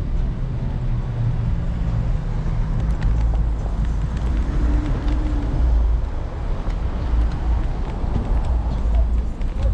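City street traffic heard from a moving electric scooter, with a constant low rumble of wind and road noise on the microphone. A steady low hum, likely a nearby vehicle engine, runs through the first few seconds.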